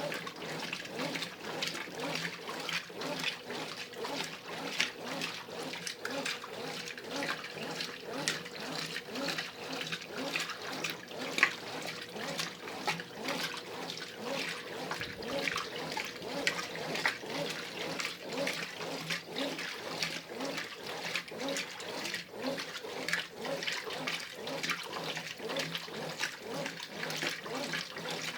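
Brastemp Ative 11 kg top-loading washing machine agitating a load in the wash stage of its heavy cycle: water and clothes churning and sloshing steadily as the agitator works.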